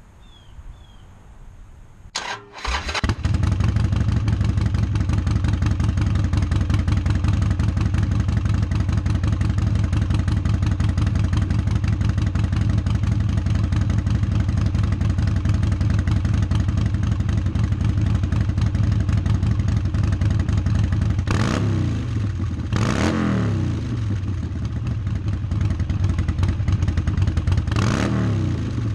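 2010 Harley-Davidson Nightster's 1200 cc V-twin, breathing through Vance & Hines Big Radius 2-into-2 exhaust, cranks briefly and starts about two seconds in, then idles. Three quick throttle blips, each rising and falling, come near the end: two close together, then one more a few seconds later.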